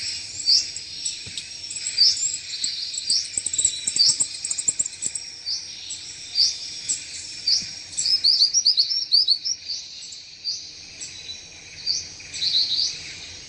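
Recorded bird calls of the bird named in Nepali as rani chari: short, high, downward-slurred notes repeated about once a second, with quick runs of rising notes around the middle and near the end. A constant high hiss of other birds or insects runs underneath.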